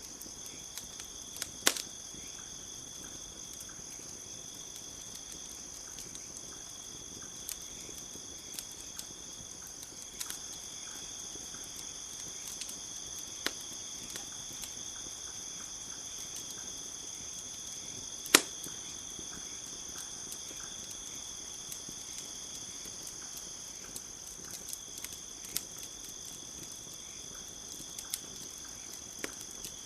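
Campfire crackling with scattered sharp pops, the loudest a little past the middle, over a steady high-pitched chorus of crickets.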